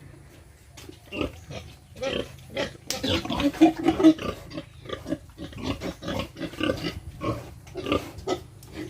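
Pigs grunting in quick, overlapping calls, with a louder, shriller stretch about three to four seconds in.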